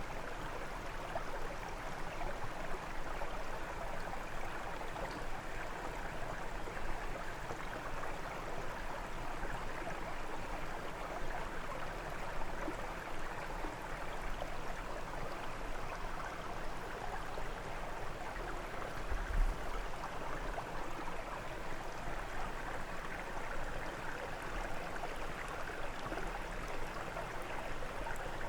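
Brook water flowing over stones: a steady rushing babble. There is a brief low thump about two-thirds of the way through.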